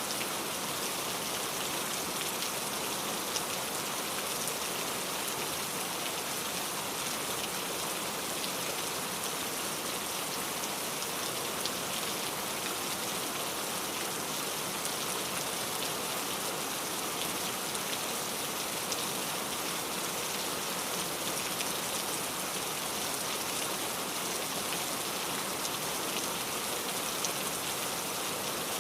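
Steady rain falling, with the hiss of the downpour and the ticks of single drops striking a surface.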